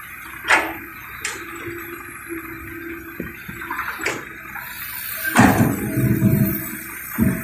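Excavator loading soil into a dump truck: a steady engine hum with several sharp clanks of the bucket, and a louder rush of soil pouring into the truck bed about five seconds in.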